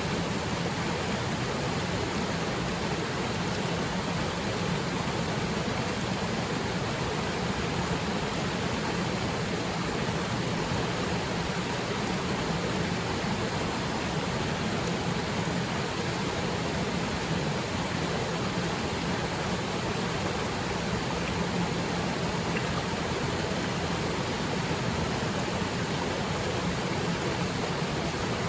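Waterfall pouring steadily into its pool: an even, unbroken rush of water.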